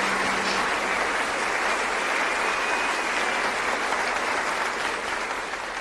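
Audience applauding steadily, fading down near the end.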